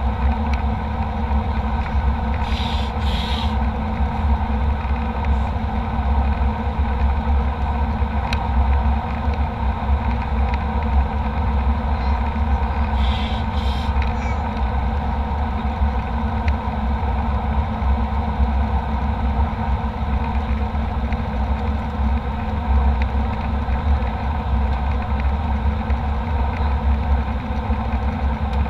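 Steady drone of a jet airliner's cabin in flight: engine and airflow noise with a deep rumble. There are two brief hissing sounds, about three seconds in and again about thirteen seconds in.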